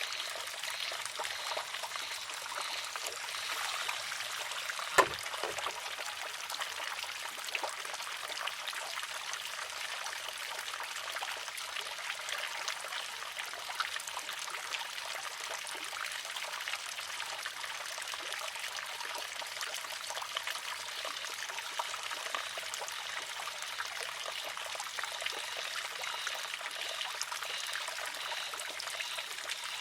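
Water trickling steadily through a wooden, water-driven shishi-odoshi (deer scarer). About five seconds in, one sharp wooden clack rings out as the arm tips and strikes the rock.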